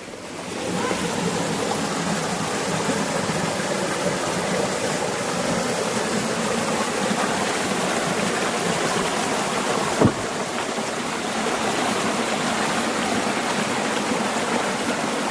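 Steady rushing of flowing stream water. A single sharp knock about ten seconds in.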